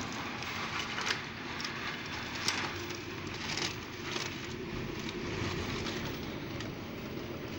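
Strong wind blowing: a steady rushing noise with scattered clicks and knocks.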